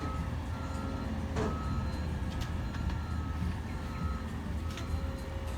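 McNeilus ZR side-loading garbage truck running, its engine giving a low steady rumble with a steady whine over it and a repeating beeping alarm. A sharp knock about one and a half seconds in.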